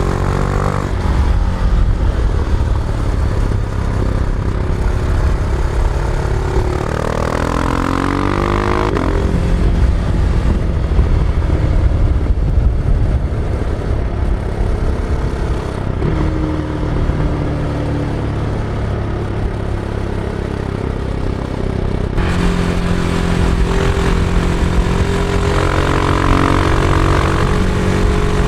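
Husqvarna Vitpilen 701's single-cylinder engine under way, heard onboard from the rider's backpack. Its pitch rises twice as the bike accelerates, about a second in and again around the one-third mark, and in between and after it holds a steady pull.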